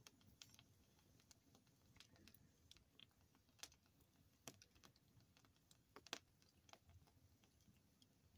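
Campfire crackling faintly: irregular pops and snaps of burning wood, with a few louder snaps around the middle.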